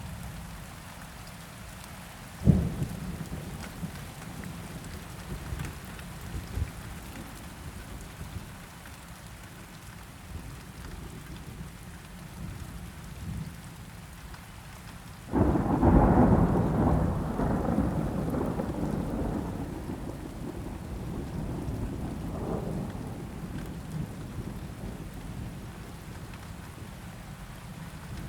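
Steady rain with thunder. A short, sharp thunderclap comes about two and a half seconds in. A much louder clap about halfway through rumbles and fades away over several seconds.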